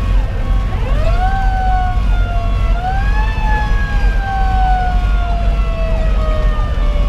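Fire engine's Federal Q2B mechanical siren winding up about a second in, boosted again near three seconds, then slowly coasting down in pitch. A faster repeating electronic siren sweep (Sho-Me Powercall) runs underneath, over the steady low rumble of the truck's Detroit Series 60 diesel and road noise.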